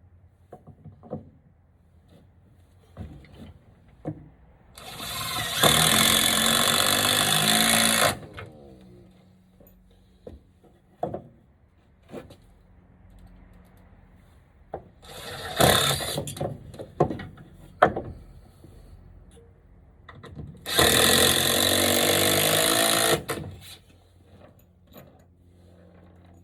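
Power drill running in two steady bursts of about three seconds each, with a shorter burst in between, driving screws into the wooden frame; knocks and clicks of handling between the bursts.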